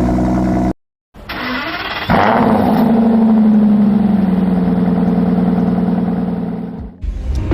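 Car engine cold start: the starter cranks for about a second, the engine catches with a loud flare of revs, then settles into a high cold idle whose pitch slowly drops before fading out near the end. A different engine idling is cut off under a second in.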